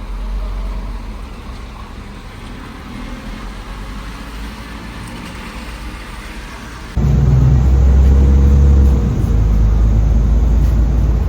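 Bus engine running, heard as a steady low rumble with some road noise. About seven seconds in it abruptly becomes much louder, with a deep engine drone.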